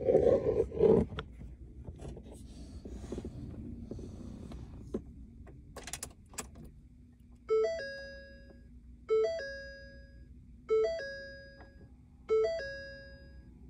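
Ford Super Duty pickup's cabin warning chime sounding four times, about a second and a half apart, with the ignition switched on before the diesel is cranked. Before it come some rustling, knocks and a few sharp clicks, and a faint steady hum runs under the chimes.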